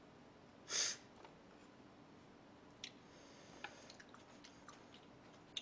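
Faint close-up eating sounds: a short breathy hiss a little under a second in, then a few soft wet mouth clicks while chewing.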